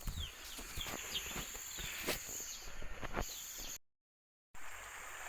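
Outdoor ambience of insects droning steadily at a high pitch, with short chirping bird calls and a few sharp clicks. The sound drops out entirely for under a second, a little under four seconds in.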